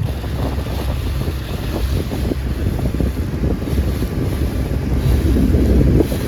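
Wind buffeting the microphone over the rumble and water rush of a small boat underway on open water, getting louder near the end.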